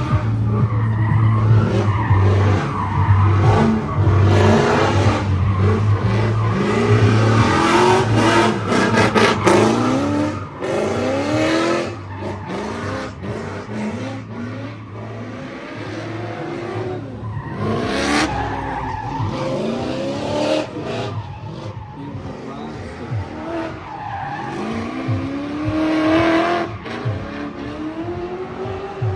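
Drift car engines revving up and down again and again as cars slide through the course, with tires squealing and skidding. A steady low hum underlies the first half.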